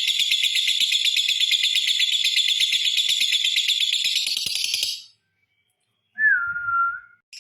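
Lovebird's long, fast, high-pitched chattering song (ngekek) that stops about five seconds in. After a short silence, one short whistled note that dips slightly in pitch.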